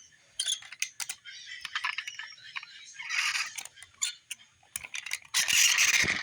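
Toy cars being handled, giving scattered light clicks and rattles, with a louder rustle near the end.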